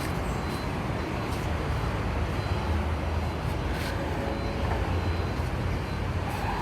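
Steady low vehicle rumble with a light hiss over it and a few faint clicks.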